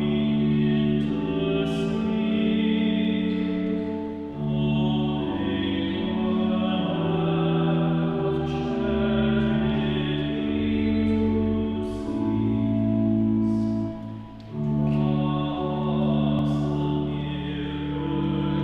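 A communion hymn: sung voices over steadily held accompanying notes, in long phrases with short breaks about four seconds in and again about fourteen seconds in.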